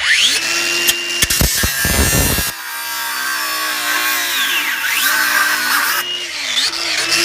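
Power tool cutting through a Worcester Bosch boiler heat exchanger: the motor starts up and runs continuously over a harsh cutting noise, its pitch dipping and recovering a few times as the blade bites into the metal.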